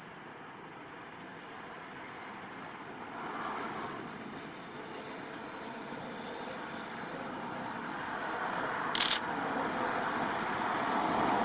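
Freight train hauled by an electric locomotive approaching along the tracks: a steady rumble of wheels on rail, growing louder. A short, sharp, high hiss sounds about nine seconds in and another right at the end.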